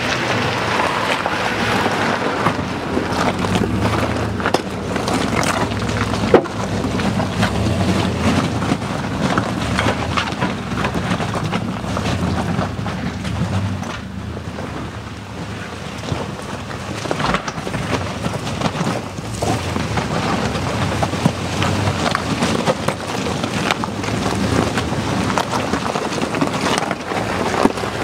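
Pickup truck driving over rough ground: a steady low engine and road rumble with wind buffeting the microphone, and scattered knocks and rattles from the bumps, one sharper knock about six seconds in.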